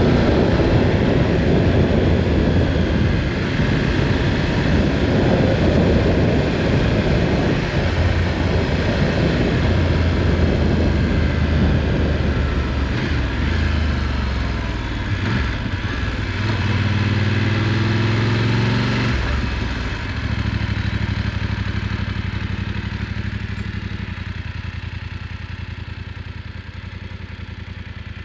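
Motorcycle engine running on the move with wind noise, its note rising and falling with speed. The sound gets quieter over the last several seconds as the bike slows.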